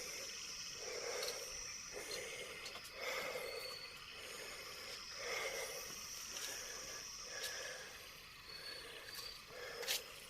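Night chorus of frogs, low croaking calls repeating about once a second, over a steady high-pitched insect drone.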